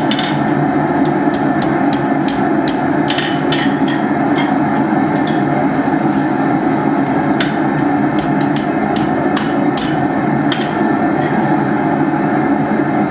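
Hammer striking steel in irregular, scattered blows while forging hooks, over the steady roar of a running forge.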